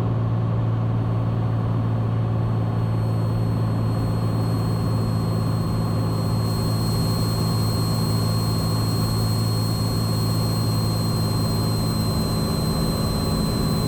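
Cessna 182's piston engine and propeller droning steadily in flight, with an even, unchanging pitch and a faint steady high whine above it.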